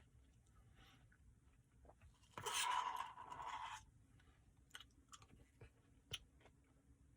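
A person eating a Butterfinger Blizzard close to the microphone. There is a loud crunchy, scraping burst lasting about a second and a half, then scattered small clicks and mouth sounds.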